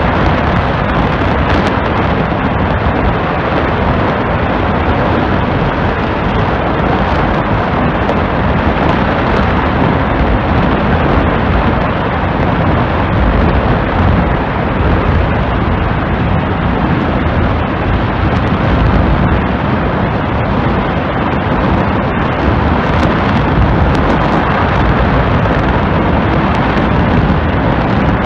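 Rocket engine firing on a test stand: a loud, steady roar that holds without a break.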